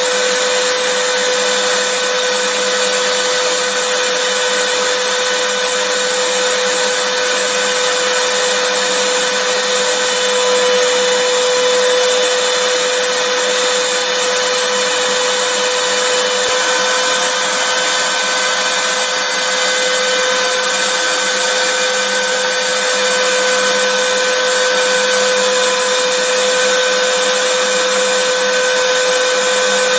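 Vacuum cleaner running steadily: a constant rush of air with a steady motor whine, unchanging throughout.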